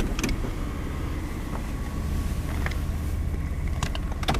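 Jeep engine running at low speed while backing up, a steady low rumble, with a few sharp clicks just after the start and near the end.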